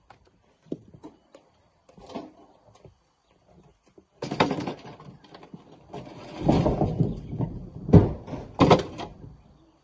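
Rocks being loaded by hand into a dump truck: a few light knocks, then from about four seconds in heavy thuds and a rumbling clatter of stone, with two hard thuds near the end.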